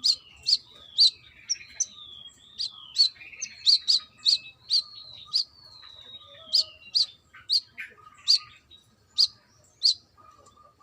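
Brown-throated sunbird (kolibri kelapa) singing: a lively run of sharp, high chirps mixed with whistled notes that slide downward, the chirps thinning out toward the end.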